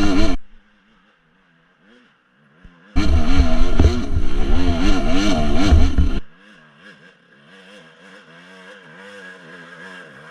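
Dirt bike engine revving up and down as it is ridden, with heavy wind rumble on the microphone. The sound drops suddenly to a faint engine about half a second in, comes back loud about three seconds in, and drops again about six seconds in.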